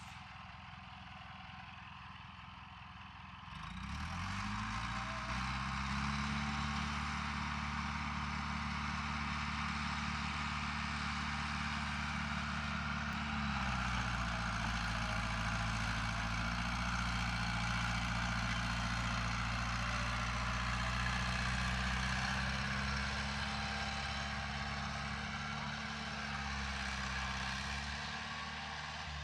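A heavy diesel engine of earthmoving equipment revs up about three and a half seconds in and runs hard under load, with a broad rushing noise over it. It eases off briefly midway, picks up again, and winds down near the end.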